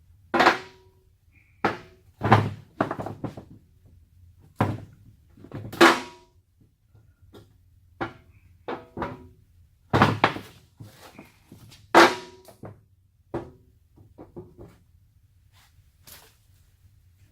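Steel truck door panels being handled and set down on a bench: a dozen or so uneven knocks and clanks, several hits leaving a short metallic ring.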